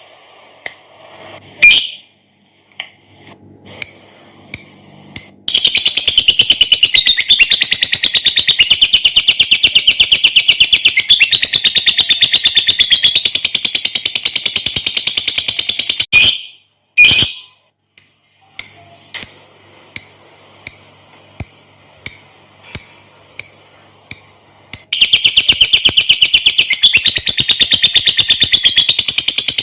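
Lovebird calls: a few separate high-pitched chirps, then a long rapid chattering trill (ngekek) lasting about ten seconds, a string of evenly spaced single chirps, and another rapid trill starting near the end.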